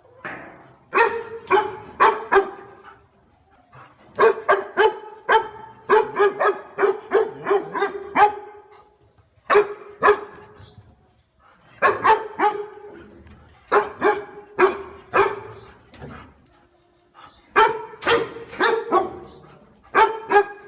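Dog barking repeatedly, in runs of several quick barks with short pauses between the runs.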